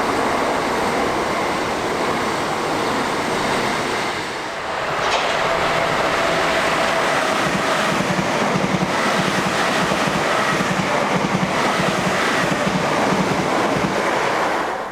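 A train passing through the station: a loud, steady rush of wheels on rail that dips briefly about four seconds in, with a faint steady whine and a rhythmic low clatter in the second half. It fades out right at the end.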